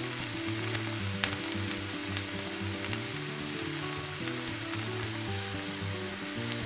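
Chicken pieces frying in hot oil with chopped onion, green chilli, ginger and garlic in a nonstick pan: a steady sizzle, with a few light clicks of the spatula against the pan. Soft background music with changing low notes plays under it.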